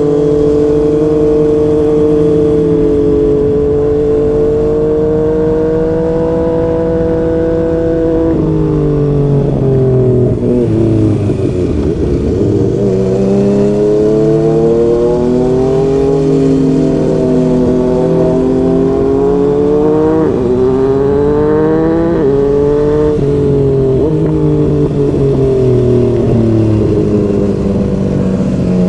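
Yamaha MT-09's three-cylinder engine through a Yoshimura R55 slip-on exhaust, under way on the road. It holds steady revs for the first eight seconds or so, then drops off and rises and falls through several gear changes, with a hard climb in revs about twenty seconds in.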